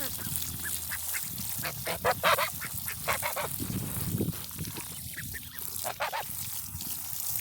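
Domestic geese honking: a series of short calls, the loudest about two seconds in, with more near the middle and end.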